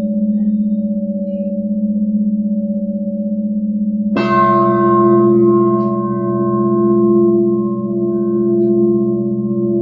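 Metal singing bowls ringing: a steady low drone with a slow wobble, then about four seconds in a fresh strike adds a bright cluster of ringing tones that sustain and slowly fade.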